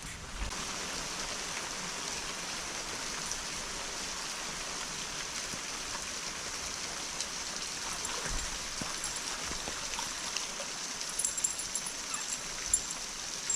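Steady hiss of moving water, with a few faint clicks and ticks.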